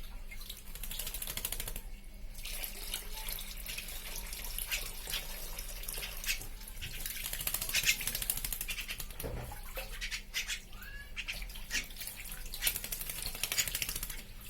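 Javan myna bathing, splashing water in irregular bursts with short pauses.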